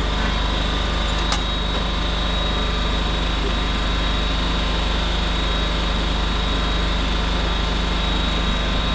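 2011 John Deere Z910A zero-turn mower's engine running steadily, just refilled with fresh oil, with a single short click about a second in.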